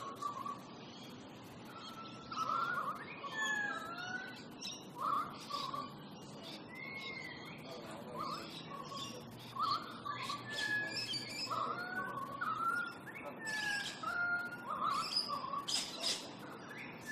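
Birds calling: many short chirps and brief whistled notes, some rising or falling in pitch, about once or twice a second.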